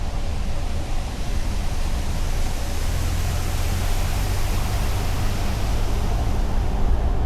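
Steady road noise of a car driving at speed: a low rumble of tyres and engine with a hiss that swells through the middle and eases near the end.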